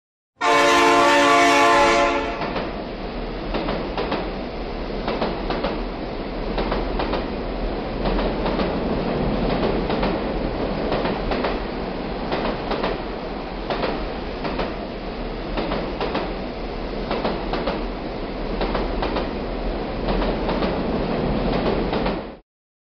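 A train horn sounds once for about two seconds, then a train runs past with repeated wheel clicks for about twenty seconds, cutting off suddenly near the end.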